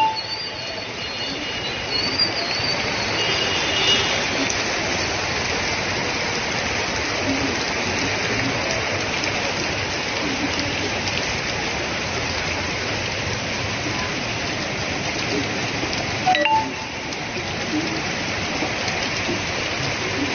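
Steady heavy rain, a continuous even hiss, briefly dipping with a click about three-quarters of the way through.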